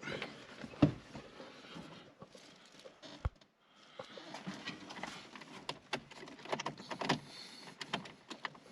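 Scattered clicks, knocks and rustling of someone handling and climbing into a car, with a few louder knocks; no engine running.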